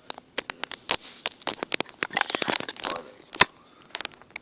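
Rapid, irregular clicks and taps with some rustling: fingers tapping and handling the tablet that is recording, picked up close by its own microphone. One sharper click about three and a half seconds in.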